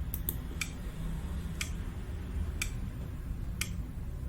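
Clock ticking about once a second as a quiz countdown timer runs, over a low steady hum.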